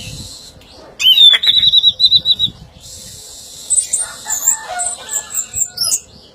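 Orange-headed thrush singing: a quick run of repeated high notes about a second in, then a varied warbling phrase mixing lower notes with high whistles from about four seconds.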